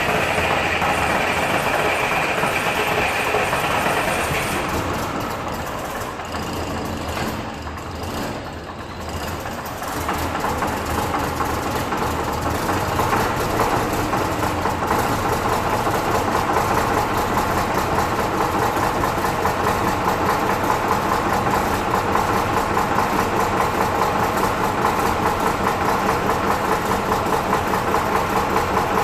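Leyland National Mk1 bus's Leyland 510 straight-six diesel running just after a cold start. It runs hard at first, sags and nearly dies about five to nine seconds in, then picks up and settles into a steady idle with an even beat, still struggling to get going in the cold.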